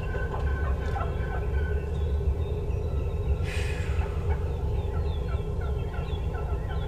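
Wind rumbling on the microphone, with runs of short, down-slurred bird calls repeating a few times a second early on and again in the second half.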